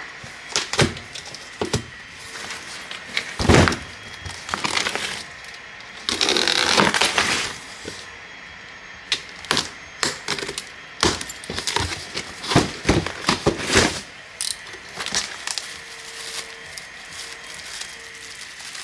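Cardboard box being opened and its packed parts handled: scattered cracks, knocks and crinkles, with a longer stretch of rustling about six seconds in.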